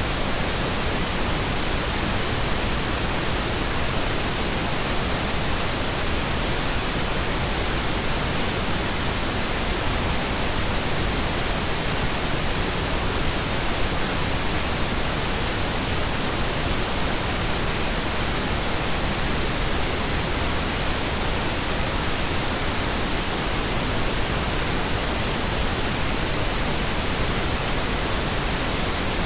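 Steady pink noise: an even, unchanging hiss spread across all pitches, with more weight toward the low end than white noise.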